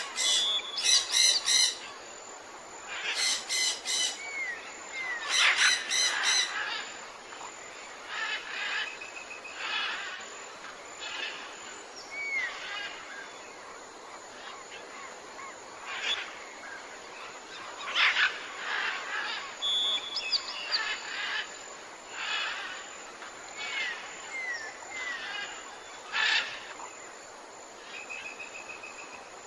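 Several wild birds calling. Harsh, rapid chattering calls come in loud bursts over the first seven seconds, and short whistled notes and chirps continue through the rest.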